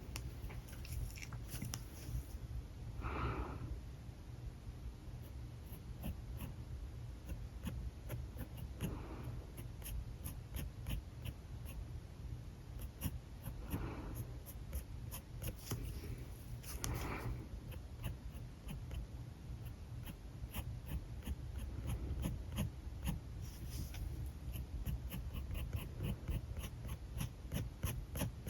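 Alcohol marker nibs stroking across paper: a steady run of short, quick scratchy strokes, with a few longer, louder squeaky strokes among them.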